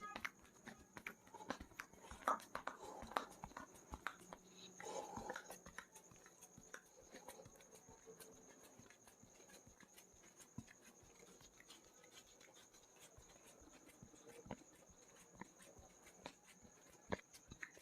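Faint hand-massage sounds: scattered light taps and slaps of hands on a person's head and body at irregular spacing, with a few brief louder patches, over a steady high-pitched hiss.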